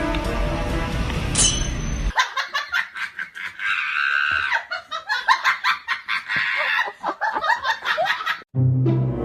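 Background music for about two seconds, then high-pitched laughter in quick, choppy peals for about six seconds, and music again near the end.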